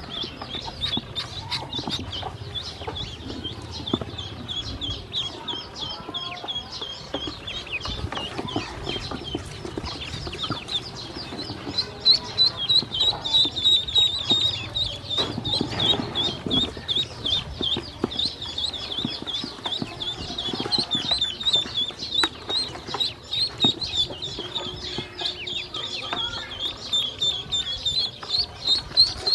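A flock of ducklings peeping, many short high calls overlapping, growing louder about halfway through.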